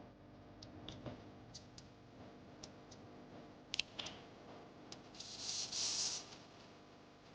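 Scattered light clicks and taps of small hard parts being handled, with a short hissing scrape about five seconds in.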